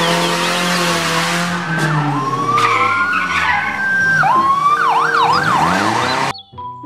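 Ambulance siren over engine and road noise: a slow rising-and-falling wail, then a fast yelp of about three cycles a second, cutting off suddenly near the end.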